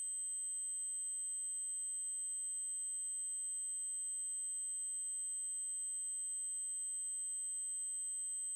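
A steady, high-pitched 8192 Hz triangle-wave test tone holding one pitch, with a faint tick about three seconds in and another near the end.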